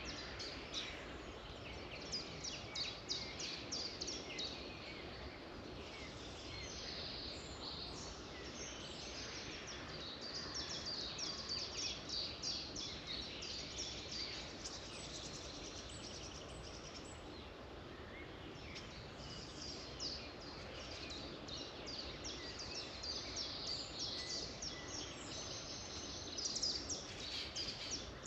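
Several songbirds singing at once, a dense run of quick chirps and trills over a steady background hiss.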